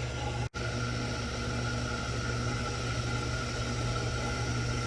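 Steady electric hum and hiss of a shop power tool working on the exhaust downpipe, dropping out for an instant about half a second in.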